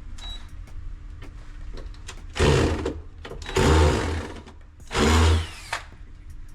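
Power drill driving screws in three short runs, each under a second long and about a second apart.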